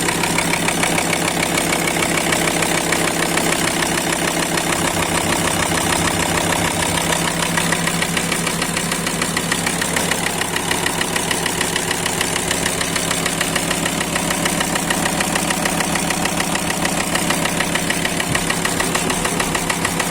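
Volkswagen 2.5 TDI (BPE) five-cylinder diesel idling steadily, with a rhythmic knock from inside the engine.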